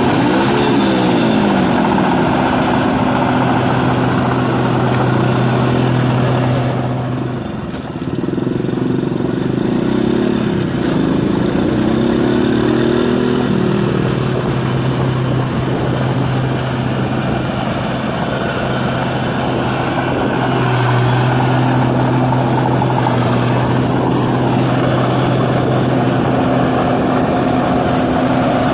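New Holland 8060 combine harvester's engine and threshing machinery running steadily while harvesting rice, with a steady engine hum over a broad mechanical noise; the sound dips briefly about eight seconds in and then builds back.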